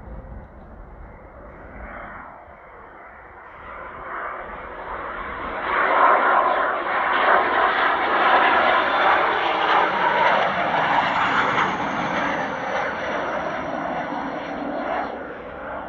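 Blue Impulse Kawasaki T-4 jet trainer's twin turbofan engines passing by. The roar builds from about four seconds in and is loudest in the middle, with a high whine that falls slightly in pitch as it goes, then drops off near the end.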